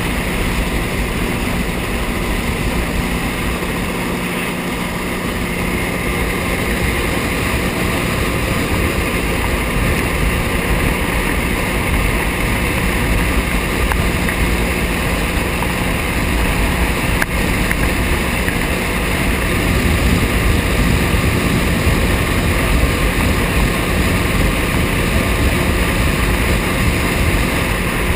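Jet ski engine running steadily at speed, with water rushing and wind noise over it.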